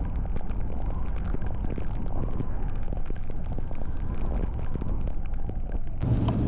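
A vehicle's steady low rumble with wind noise and many scattered light ticks. About six seconds in the sound changes abruptly to a stronger, deeper hum.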